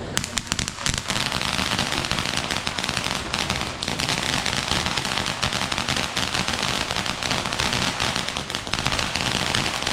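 Fireworks going off in a dense, rapid run of small cracking bangs, like a long string of firecrackers, starting sharply and keeping up without a break.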